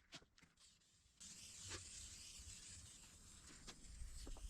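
Aerosol spray-paint can spraying: a steady hiss that starts about a second in and keeps going.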